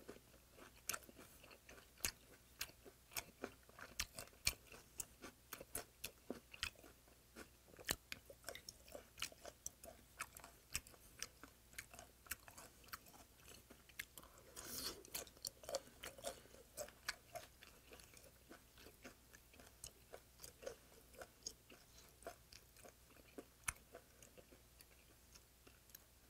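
Close-miked chewing of a mouthful of spicy raw stingray salad, with small wet crunches a couple of times a second. About halfway a brief louder rush as a fresh mouthful is taken.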